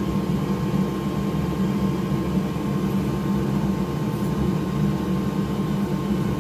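Steady low mechanical hum with a thin, unwavering tone above it, from machinery running continuously in the workshop.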